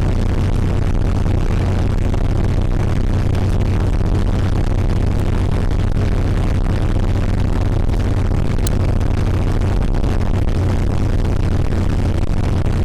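REO vehicle under way at a steady pace, its engine and drivetrain giving a loud, steady low drone, heard from aboard.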